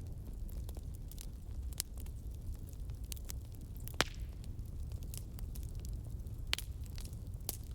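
Wood fire burning in a fireplace: a low steady rumble of flame with frequent sharp crackles and pops from the burning logs, a few louder pops standing out, one about four seconds in.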